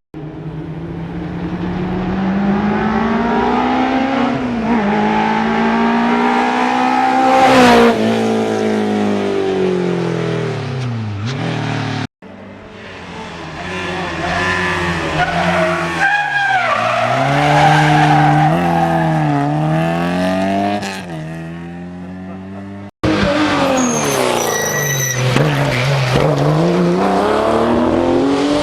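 Historic rally cars at full throttle, the engine pitch climbing through each gear and dropping at the shifts and under braking. The sound breaks off abruptly twice: three separate passes, each a different car at speed.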